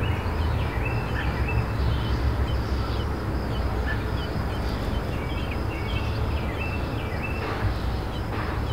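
Small birds chirping in short, high, repeated notes over a steady low rumble.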